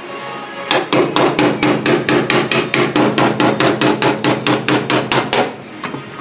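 Hammer tapping rapidly on the bare steel body panel of a Mazda RX-7, about twenty quick, even strikes at roughly four a second, each with a short metallic ring, working out a dent. The tapping starts just under a second in and stops about a second before the end.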